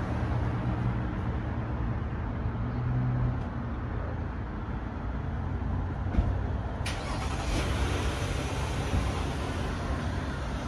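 Street traffic: a motor vehicle's engine running close by, a steady low hum over road noise that eases a little about three seconds in.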